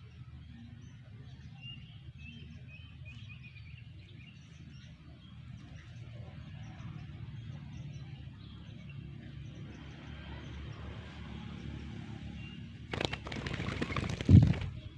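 Faint birds chirping over a low outdoor background, then a loud rustling burst of under two seconds near the end, sharpest just before it stops.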